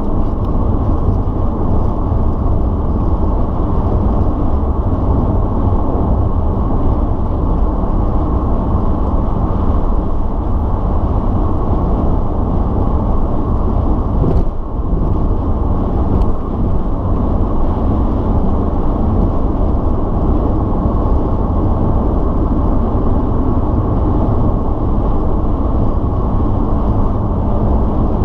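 A car's V6 engine and tyres heard from inside the cabin while cruising on a highway: a steady low drone that eases slightly for a moment about halfway through.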